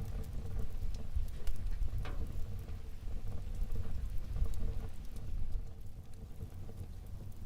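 Wood fire burning in a fireplace: a steady low rumble of flames with scattered small crackles and pops, one a little sharper about two seconds in.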